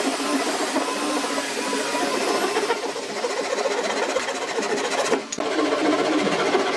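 A small motor-driven power tool running steadily, with a wavering whine; the sound breaks off briefly about five seconds in.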